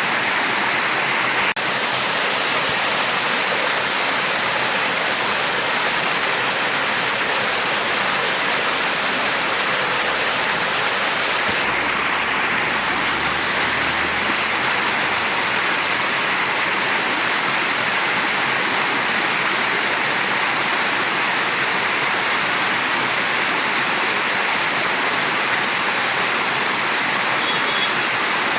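Mountain stream rushing over rocks: a steady, dense water noise.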